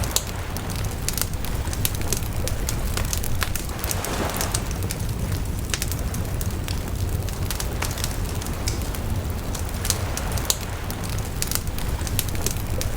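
Wood bonfire crackling: frequent sharp pops and snaps over a steady low rumble of burning flames, with a brief swell of hissing about four seconds in.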